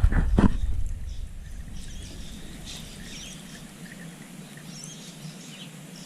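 A low rumble with two sharp knocks in the first half second, then it settles and several short bird chirps come through.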